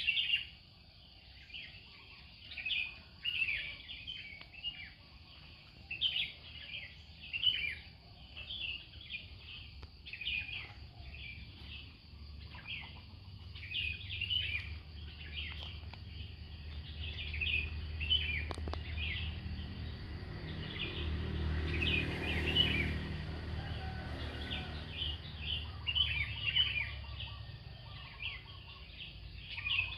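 Many small birds chirping and singing in quick, high, overlapping calls throughout. Through the middle a low rumble builds, loudest a little past halfway, then fades away.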